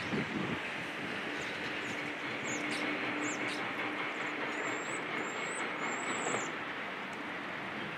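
Steady mechanical noise of engines, likely heavy demolition machinery mixed with traffic, with a faint steady hum in the first half and a few short high squeaks in the middle.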